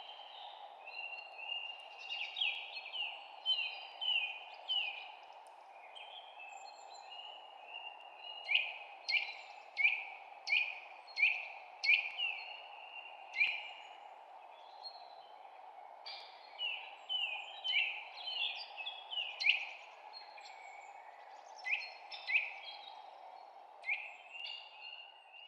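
Songbirds chirping in bouts of short, sharp, downward-sliding notes, some quick runs of several in a row, over a steady background noise.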